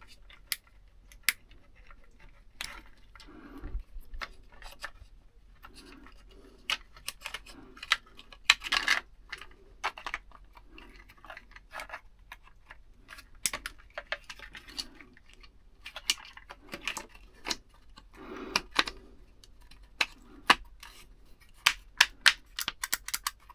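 Hand tools and small metal parts handled during electrical wiring work: scattered sharp clicks, snips and light metallic rattles, coming thicker and faster near the end.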